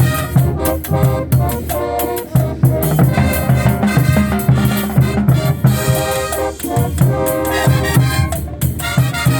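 A brass band playing lively music with a steady beat, horns such as trumpets and trombones carrying the tune over a pulsing bass.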